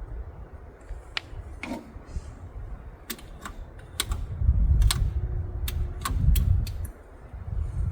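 About a dozen sharp, irregular metallic clicks and taps from hand work on a vintage Gravely walk-behind tractor's engine, over a low rumble that swells in the middle.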